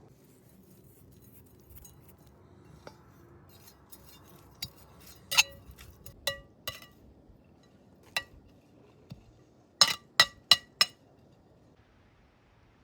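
Kitchenware clinking: sharp ringing clinks. A few come spread out through the middle, then four in quick succession near the end.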